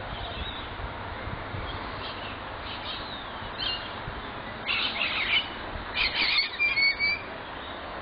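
Harsh bird squawks in short bursts in the second half, over a steady low background noise.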